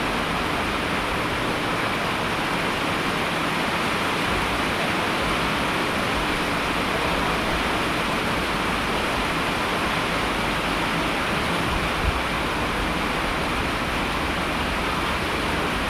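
Steady rain falling, an even unbroken hiss of water, with one brief thump about twelve seconds in.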